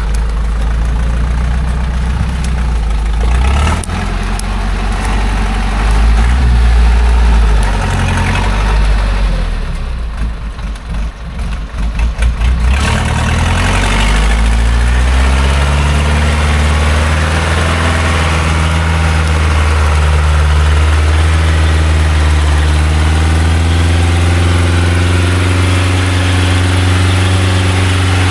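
Engine of a loaded logging truck running heavily at low revs, turning uneven and chugging about ten seconds in, then revving up and holding high revs as it strains to climb.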